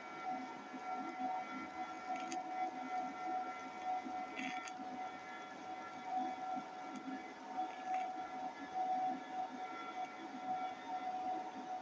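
TIG welding arc as a bead is laid with filler rod: a steady buzzing hum with a constant high tone, and a few faint clicks.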